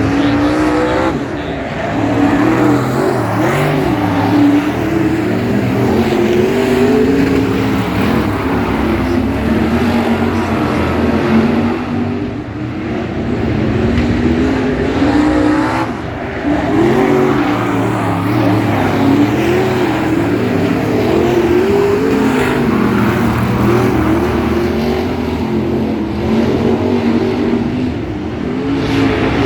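Several speedway race car engines running laps, revving up and easing off as they go round, the sound swelling and dipping as the cars pass.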